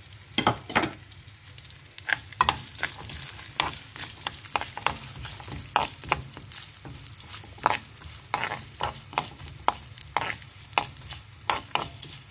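Cashews, black pepper and cumin frying in sizzling ghee in a steel pan, stirred with a steel spoon: a steady sizzle with frequent sharp clicks and scrapes of the spoon against the pan. This is the tempering (tadka) for ven pongal.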